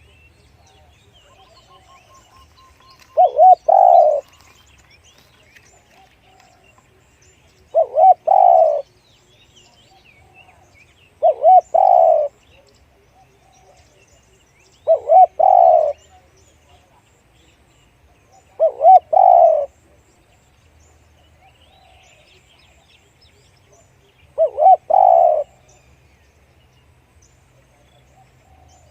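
Spotted dove cooing: six short phrases about every four seconds. Each is a quick double note followed by a longer coo.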